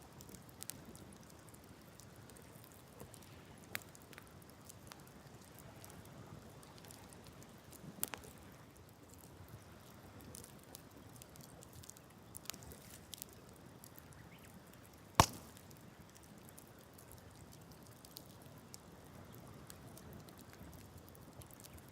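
Wood campfire crackling: scattered sharp pops and snaps over a faint steady background, with one much louder pop about two-thirds of the way through.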